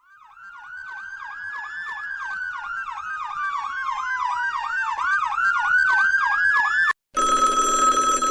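Emergency siren, a fast yelp about three cycles a second layered over a slower rising and falling wail, starting out of silence and cutting off abruptly about seven seconds in. A loud bell-like ringing follows straight after.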